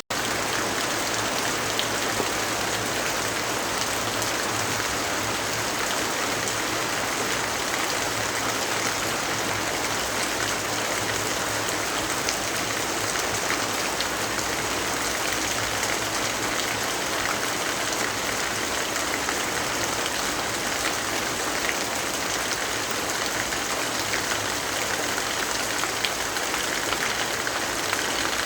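Steady rainfall: a dense, even hiss of rain with scattered small drop ticks.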